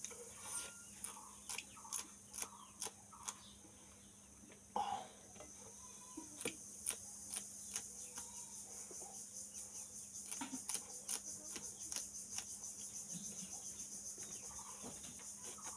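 Crisp crunching and wet mouth clicks of raw green chillies being bitten and chewed close to the microphone, in irregular sharp snaps, over steady high-pitched cricket chirring.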